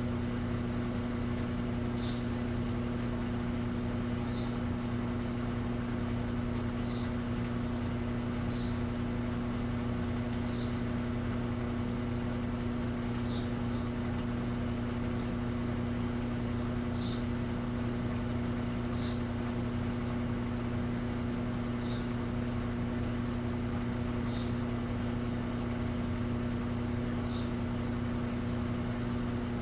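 Electrolux Essential Care 11 kg top-load washing machine running with a steady hum, and a short high chirp repeating about every two seconds.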